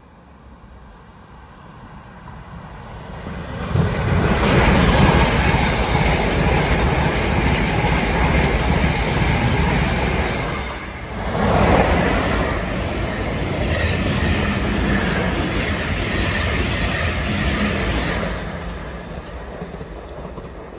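South Western Railway passenger train approaching and passing close by at speed. The rumble of wheels on rails builds over the first four seconds, dips briefly about eleven seconds in, then eases off near the end.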